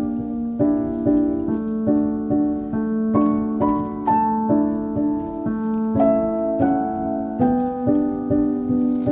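Gentle background piano music, a steady flowing pattern of notes with new notes struck a few times a second.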